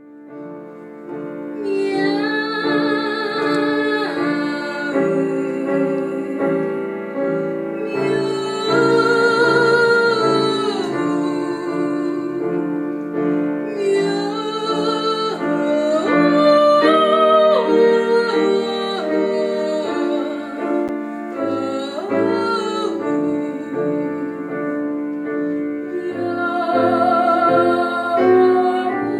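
A female voice singing in an operatic style with strong vibrato, in phrases over piano accompaniment. The piano starts alone and the voice comes in about two seconds later.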